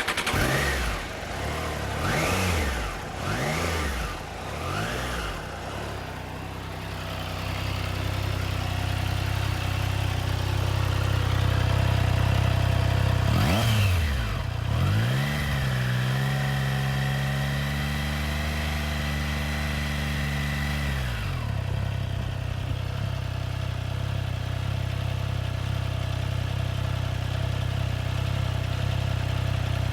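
Motorcycle engine blipped four times in quick succession, then idling steadily; about halfway through it revs up and holds a raised speed for about six seconds before dropping back to idle.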